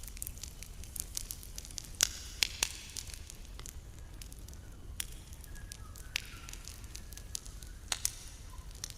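Campfire crackling, with irregular sharp pops from the burning wood; the loudest pops come about two seconds in and again near the end, over a steady low rumble.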